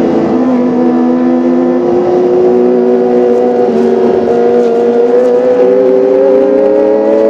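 Kawasaki ZX-25R's 250 cc inline-four engine running at high revs, its pitch climbing slowly and steadily with a few small steps up and down.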